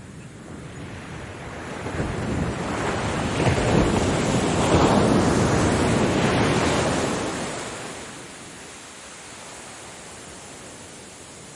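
A single ocean wave breaking and washing in: the surf builds about two seconds in, is loudest in the middle, and draws back by about eight seconds to a quieter steady wash of the sea.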